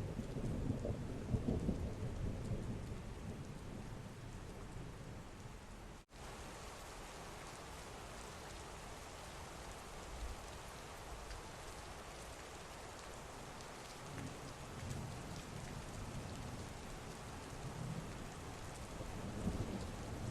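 Steady heavy rain with rolling thunder: a low rumble fading over the first few seconds, then fainter rumbles building again toward the end. There is a split-second dropout in the sound about six seconds in.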